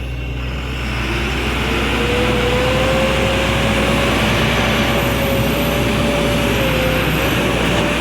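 Heavy diesel engine revving up about a second in, with a rising whine that then holds steady before easing slightly near the end.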